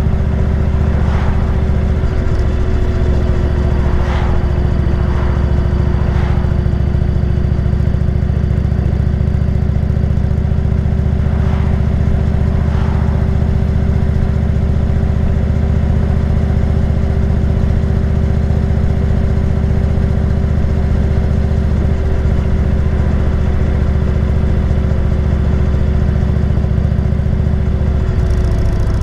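Motorcycle cruising at an even speed, its engine running at a constant pitch over a deep steady rumble.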